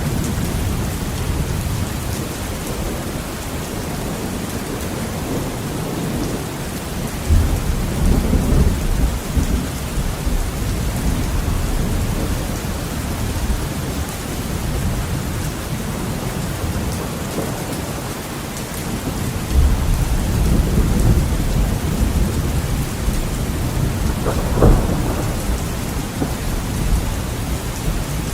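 Heavy rain on a window with thunder. Deep rumbles of thunder start suddenly about seven seconds in and again around twenty seconds, and a sharper clap comes a few seconds before the end, over a steady hiss of rain.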